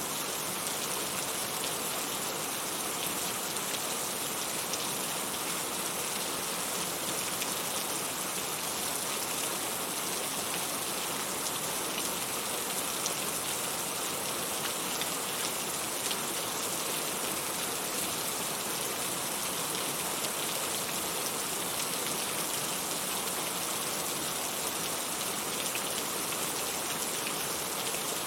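Steady rain falling, an even hiss of many drops with fine scattered drop ticks, without thunder.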